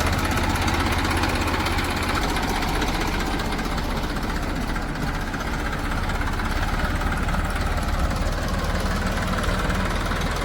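Diesel engine of farm or earthmoving machinery idling steadily, just after being started. A strong low hum eases about two seconds in.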